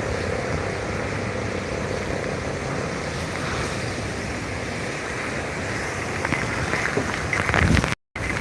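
Heavy rain falling in strong wind, a steady rushing hiss, with wind buffeting the microphone. The gusts hit harder near the end, and the sound drops out for a split second just before the end.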